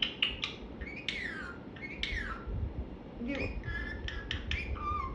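Pet parrot vocalising: a few clicks, two falling whistle-like calls about one and two seconds in, then a run of short chattering, speech-like sounds and clicks near the end. A fan hums steadily underneath.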